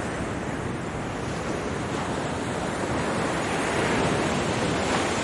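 Ocean surf washing onto a beach. The rush of the waves swells to a peak about four seconds in and then begins to ease.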